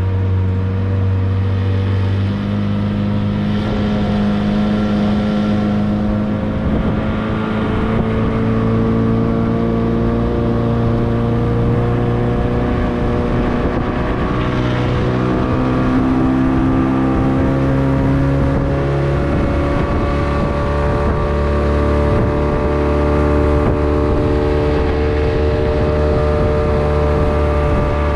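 Mercury 9.8 two-stroke outboard motor running under way, pushing a small aluminium jon boat. The engine note holds steady but wanders slightly up and down in pitch, over a rushing wash of wind and water.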